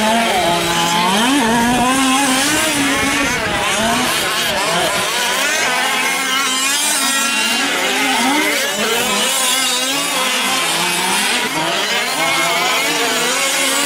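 Several 5th-scale gas RC trucks' small two-stroke engines racing together, their overlapping whines rising and falling as they rev up and back off around the track.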